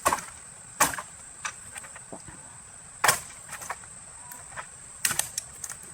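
A hand blade hacking at tree branches: four sharp strikes at uneven gaps of one to two seconds, with a few lighter cuts between them.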